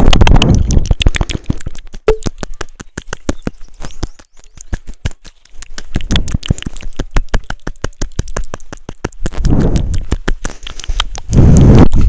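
Rapid, fairly even clicks of typing on keys, several strokes a second, with bursts of low rumbling noise at the start, about ten seconds in and near the end.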